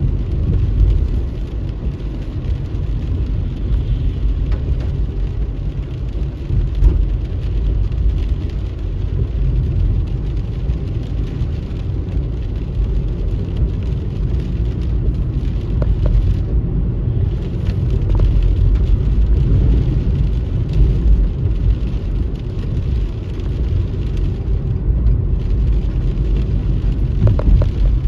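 Car driving on a wet road in the rain: a steady low rumble of engine and road noise with a hiss of rain and wet tyres.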